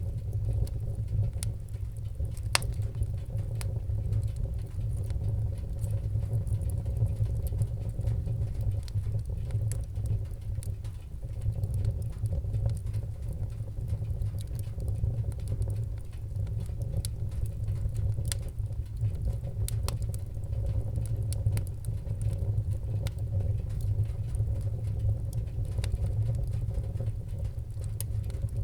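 Wood fire burning in a fireplace: a steady low rumble of flames with irregular sharp crackles and pops, one louder snap about two and a half seconds in and another around twenty seconds.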